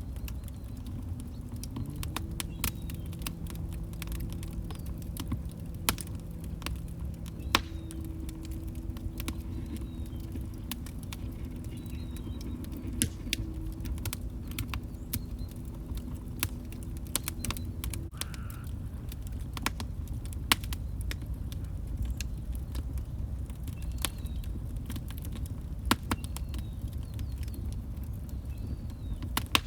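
Log fire crackling: irregular sharp pops and snaps over a steady low rumble of burning. A faint low steady tone runs from about two seconds in until about eighteen seconds.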